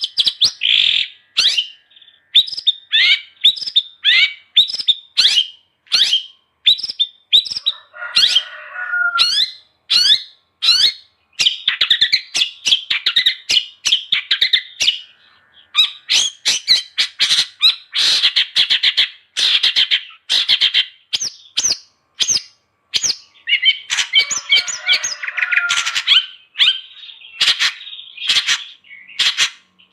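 Long-tailed shrike (cendet) singing continuously: a rapid string of sharp chirps and quick downward-sweeping whistled notes, with dense chattering phrases. Harsh, rasping squawks break in twice, about a quarter of the way in and again near the end.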